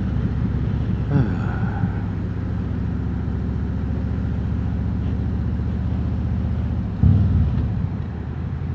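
Harley-Davidson Road King Special's V-twin engine running under way, a steady low pulsing exhaust note. About seven seconds in it briefly gets louder, then settles a little quieter.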